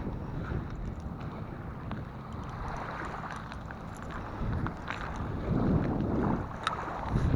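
Wind buffeting the microphone, swelling in gusts, over the low wash of surf.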